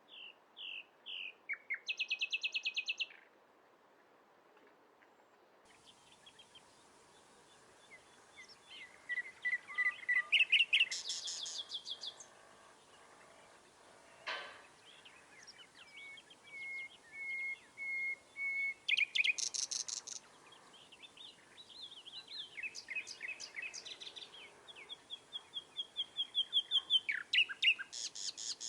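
Songbirds singing: repeated trills and rapid series of chirps, with pauses between phrases. About halfway through there is a single short click.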